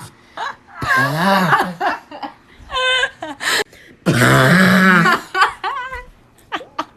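A woman's donkey-like braying laugh, in about four loud bouts that swing between high squeals and lower, rougher sounds, with breaths between.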